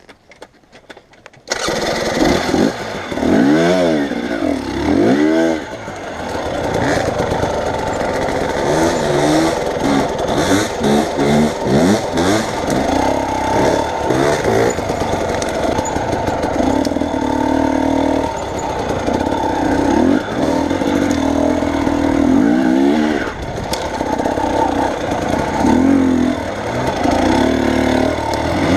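Vehicle engine running under load, its revs rising and falling again and again. It cuts in suddenly about a second and a half in.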